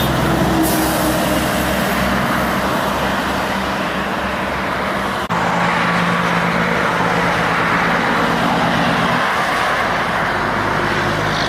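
Heavy diesel trucks running past on a highway: a steady engine drone with tyre and traffic noise.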